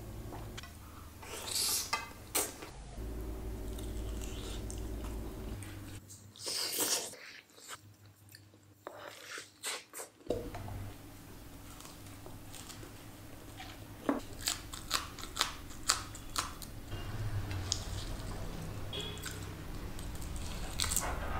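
A person eating close to the microphone: chewing and biting, with many short, sharp crunches and clicks over a low steady hum. The sounds drop away to a quieter stretch about a third of the way in.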